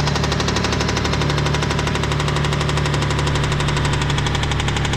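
1992 Mitsubishi 3000GT VR4's twin-turbo V6 idling steadily with a loud, rapid lifter tick, the notorious hydraulic lifter noise of this engine.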